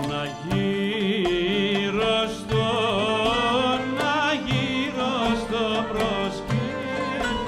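Traditional music played live: a melody with fast wavering ornaments over a plucked string accompaniment.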